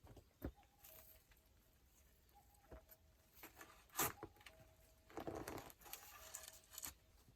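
Faint, scattered knocks and crunches of digging in soil and stone, the loudest knock about four seconds in, with a short scraping rustle just after five seconds.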